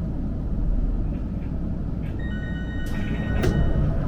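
Cabin sound of a Kagoshima City streetcar: a steady low rumble, joined about halfway through by a high ringing tone lasting under two seconds, with two sharp clicks near the end.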